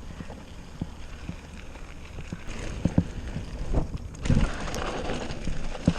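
Bicycle being ridden over rough ground, with irregular knocks and rattles over a low rumble of wind on the microphone; from about four seconds in, a louder rushing hiss joins.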